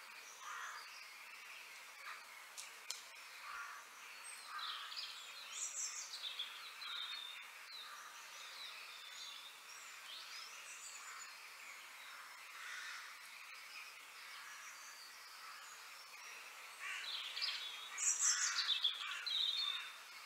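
Small birds chirping and twittering: many short, high calls overlapping, growing louder and busier near the end.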